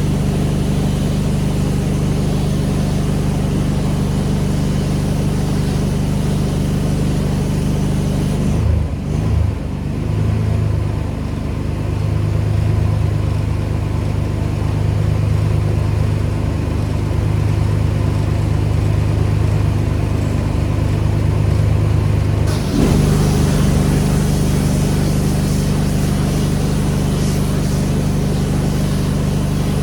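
Pressure washer engine running with the spray hissing. About nine seconds in, the spray stops and the engine settles to a lower steady note; about twenty-three seconds in, the spray starts again and the engine returns to its working pitch.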